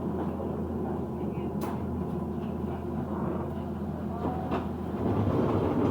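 Inside a moving bus: a steady low running hum with the cabin rattling, a sharp click about one and a half seconds in, and the noise getting a little louder near the end.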